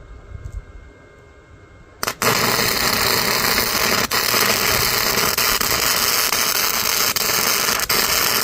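Flux-core wire welder's arc sizzling steadily as a weld is laid. It starts about two seconds in after a quiet moment and runs on with a few very brief breaks.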